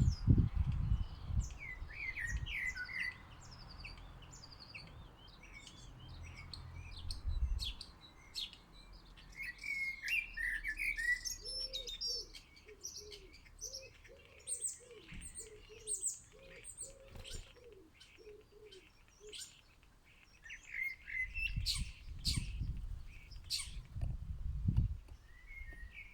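Small garden birds chirping and twittering close to the microphone at a feeder, with sharp clicks scattered through. A run of lower notes comes about twice a second in the middle, and heavy low thumps come near the start and again near the end.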